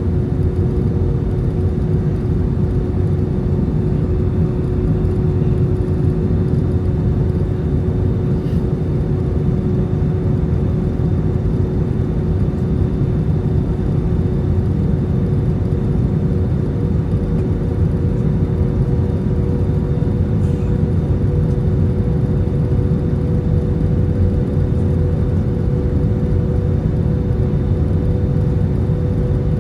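Airbus A320 cabin noise on the descent: a steady deep rumble of engines and airflow, with two steady hum tones from the engines running through it.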